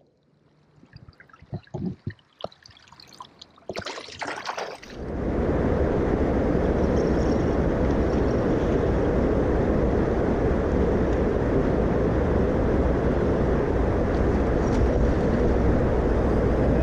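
A few faint splashes and clicks, then about five seconds in a loud, steady rush of motor, water and wind noise starts and holds: a jet boat running at speed across the river.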